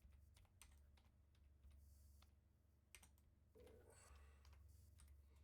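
Faint computer keyboard typing: a scattered run of soft key clicks, over a low steady hum.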